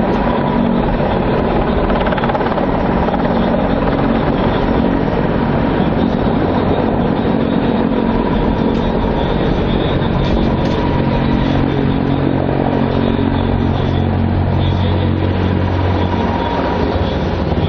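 Helicopter flying a display pass: steady engine and rotor noise with a low drone that grows stronger in the last few seconds.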